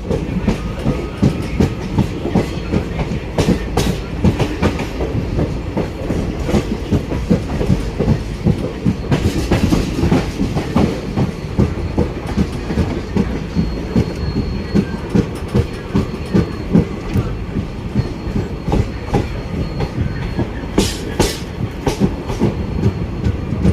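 A train running on the rails: a steady rumble with the wheels clattering over rail joints in quick, uneven beats, and a faint thin high whine for a few seconds in the second half.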